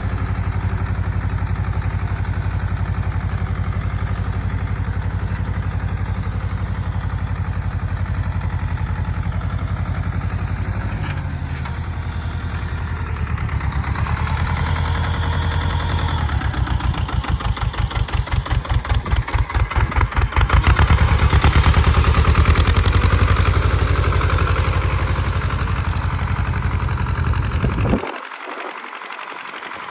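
Sonalika DI 30 tractor's diesel engine running steadily. About a third of the way in its note changes, then it throbs with a pulsing beat and grows louder before the sound drops away sharply near the end.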